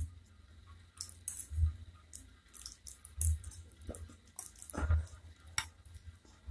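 Close-miked eating sounds: wet, squishy chewing with small mouth clicks and soft low thumps about every second and a half, as flat noodles are lifted from the bowl of spicy broth with a fork and spoon.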